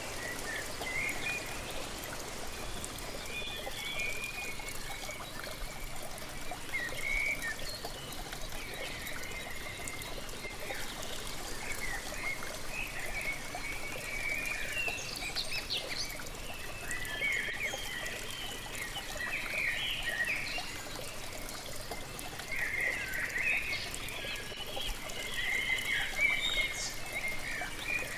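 Waterfall pouring steadily, with birds chirping and calling over it, the calls growing busier in the second half.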